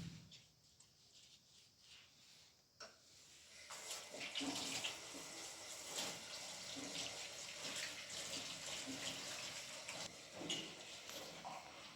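Running, splashing water, starting about four seconds in, with small clicks and knocks over it.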